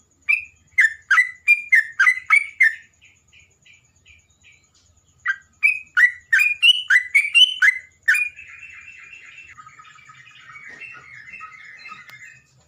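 Songbird singing: two phrases of loud, sharp, repeated notes, about three a second, then a softer, fast continuous twitter in the last few seconds.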